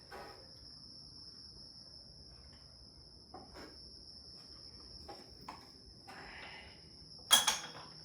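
Pulley puller being turned with a wrench on a power steering pump pulley: a few faint clicks and scrapes, then one loud sharp metal clank near the end, over a steady high-pitched tone.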